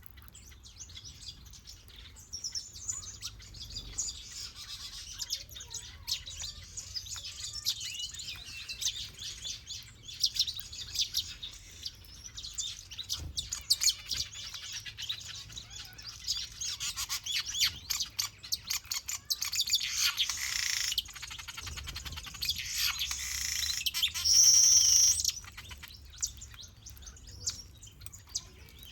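Small aviary birds, finches and softbills, chirping and twittering together: many short high calls overlapping, growing thicker and louder in the second half, with one loud, high, sustained trill about two-thirds of the way through.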